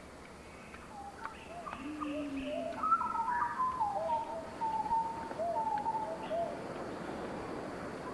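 Wild birds calling: a string of short whistled notes and warbling glides over about five seconds, with a low cooing note about two seconds in.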